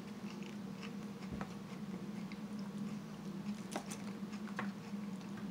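Close-miked chewing and biting of seafood salad, with a few sharp clicks of a plastic fork against a foam takeout container, over a steady low hum.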